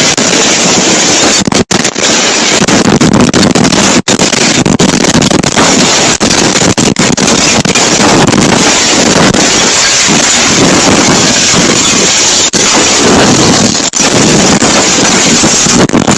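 Tornado-force wind blasting across a phone microphone: loud, continuous wind noise that briefly cuts out a few times.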